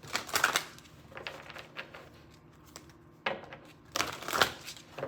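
Tarot cards being handled and shuffled: rustling flurries of card against card near the start and again about three and a half to four and a half seconds in, with light clicks of cards set down in between.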